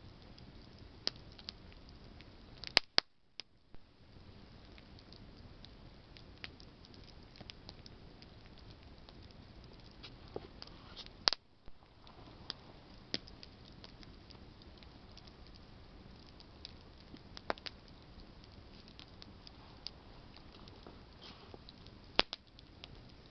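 Campfire of burning branches crackling: a steady low hiss with scattered sharp pops and ticks, four of them much louder than the rest.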